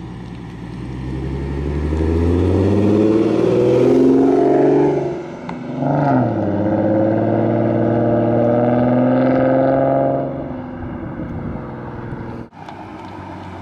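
Ford Mustang 3.7 V6 with Roush axle-back exhaust and BBK shorty headers accelerating hard, its pitch rising for about five seconds. It drops away briefly, then pulls again and holds high. It eases off the throttle near the end.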